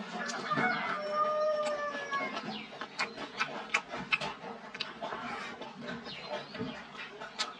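Close-up eating sounds: chewing and soft wet mouth clicks, with chopsticks lifting food from the bowl. A drawn-out bird call sounds for about two seconds near the start.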